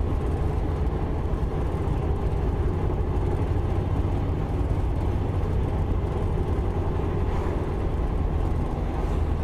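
Steady low rumble of a moving motor vehicle: engine and road noise, with a faint steady hum over it.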